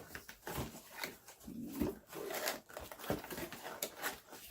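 Graphics-card packaging being handled and opened: irregular cardboard rustles, scrapes and light knocks.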